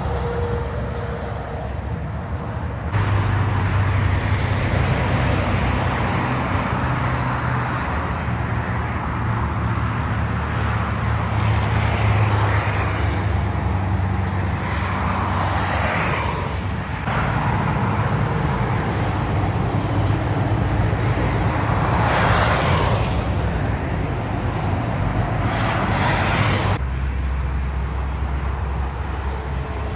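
Road traffic with heavy diesel trucks: engines running with a low hum and vehicles passing one after another. The sound changes abruptly about three seconds in and again twice later, where clips are cut together.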